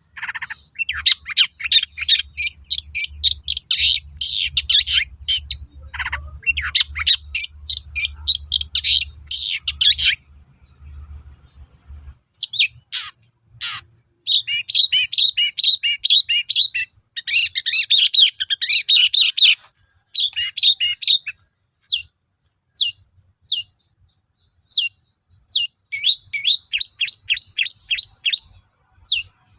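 Long-tailed shrike singing: long bursts of rapid, scratchy chattering notes, broken about two-thirds through by a run of single sharp notes about one a second, before the fast chatter returns near the end.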